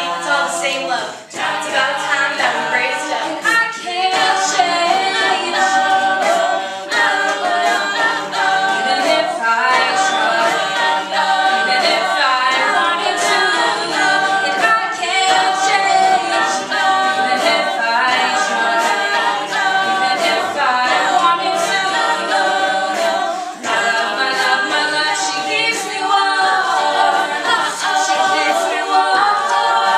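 An a cappella vocal group singing in close harmony, with sharp percussive clicks keeping a beat under the voices.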